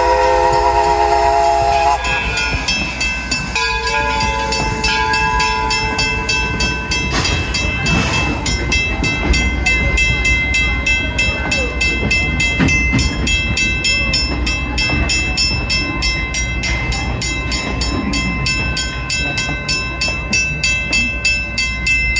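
Steam train whistle sounding a chord, ending about two seconds in, then a shorter, thinner blast a couple of seconds later. After that the train runs on with a fast, even rhythmic clatter over a low rumble.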